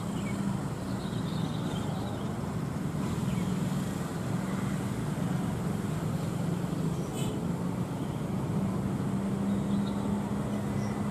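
Aircraft engines running with a steady low drone.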